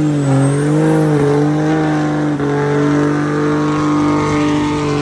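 Diesel pickup truck engine held at high revs, steady in pitch, with a high whistle rising over the first couple of seconds.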